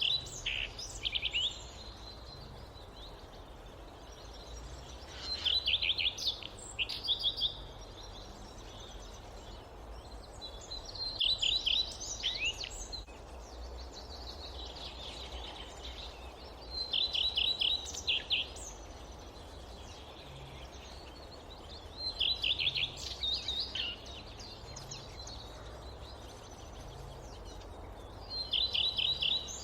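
A songbird repeating the same short phrase of rapid high notes, each lasting one to two seconds, about every six seconds, over a steady low forest background noise.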